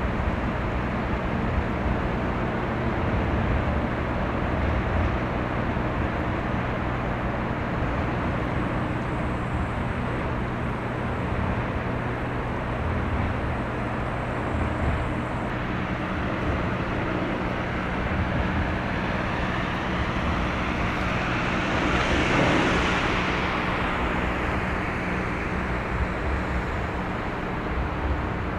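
Steady outdoor rumble with a low, even hum. About three-quarters of the way through, a vehicle passes close by, swelling and then fading.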